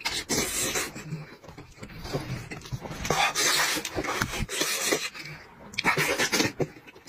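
A person eating with loud chewing and lip-smacking in short, irregular bursts, close to the microphone.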